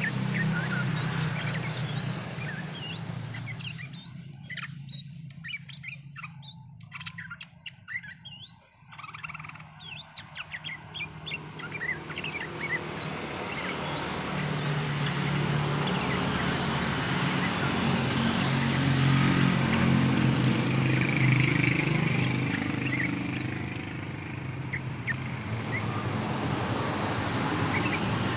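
Small birds chirping: many short, quickly rising chirps scattered throughout, over a steady background hiss and low hum.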